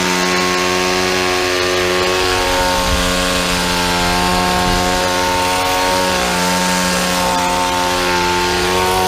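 Shindaiwa DH230 hedge trimmer's small two-stroke engine running at high revs, its newly fitted blades trimming a bush, the engine note sagging briefly a couple of times as the blades take a load.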